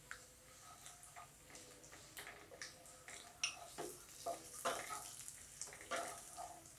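Crushed ginger, garlic, cumin and spice powders frying faintly in hot oil in a non-stick kadhai, a light sizzle under irregular scrapes and taps of a wooden spatula stirring the masala.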